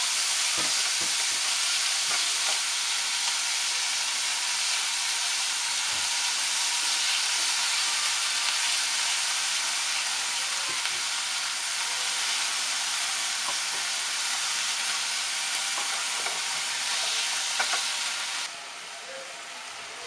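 Diced raw chicken sizzling in hot oil in a frying pan, cooking until it changes colour, stirred with a spatula that knocks lightly against the pan now and then. The sizzle drops suddenly to a quieter level near the end.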